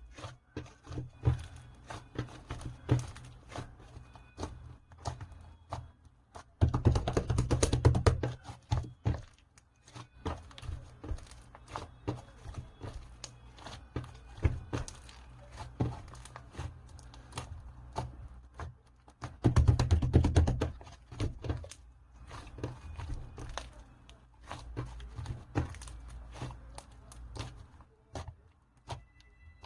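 Strawberry cream slime being squeezed and pressed by hand: a steady run of small wet clicks and pops, with two louder stretches of dense crackling, about seven seconds in and again about twenty seconds in.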